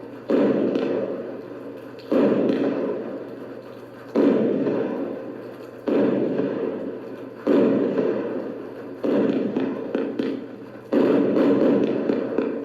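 Fireworks battery cake (TKB248A "Solidny") firing shot after shot, seven in all, about one every two seconds. Each is a sudden boom that dies away over a second or more, with crackling near the end.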